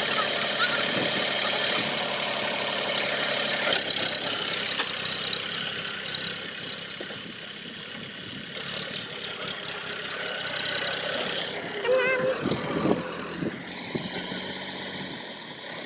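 Tractor engine running steadily at low speed. It grows somewhat quieter after about seven seconds, and a brief wavering tone is heard about twelve seconds in.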